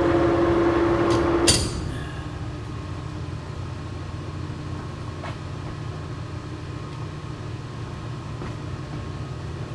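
Old Monarch engine lathe running, set up for thread cutting: a loud steady whine from the drive stops with a clunk about one and a half seconds in, leaving the lower steady hum of the machine still running.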